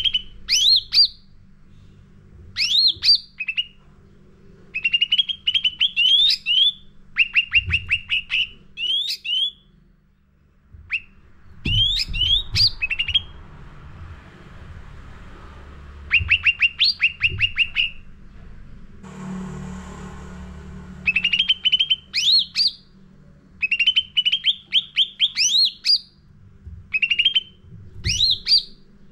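Cucak ranting songbird singing continuously in short, rapid phrases of rising, high-pitched chirps about a second long, repeated every second or two. The song is loud and full, with a brief pause and a short noisy rustle about two-thirds of the way through.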